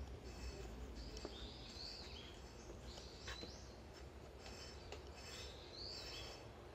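Faint outdoor ambience: a bird gives short chirping calls a few times over a steady low background rumble.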